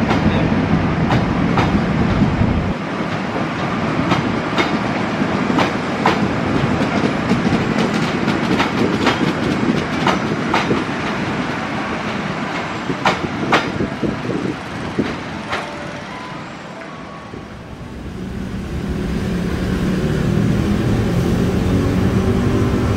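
A train running through the station, its wheels clicking over rail joints above a heavy rumble. The clicking dies away about 17 seconds in, and a steady engine hum and rumble build up again toward the end as another train approaches.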